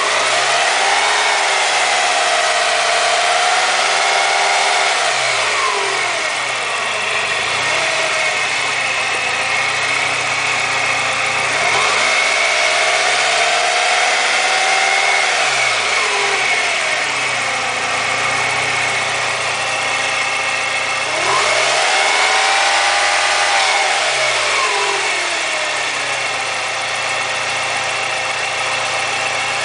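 BMW E36's M42 1.8-litre twin-cam four-cylinder engine idling and being revved up and back down three times, shortly after a timing chain replacement. A steady high whine runs under the engine throughout.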